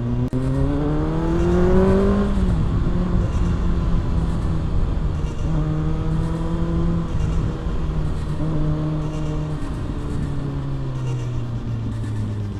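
Kawasaki ZX-6R's inline-four engine accelerating, its pitch rising for about two seconds, then dropping as the throttle closes. It then runs at a fairly steady engine speed with small dips.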